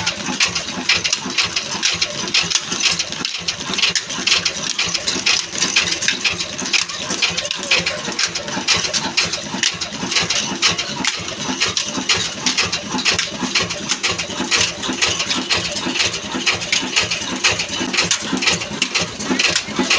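Old Ruston diesel engine running steadily, with a fast, even mechanical clatter.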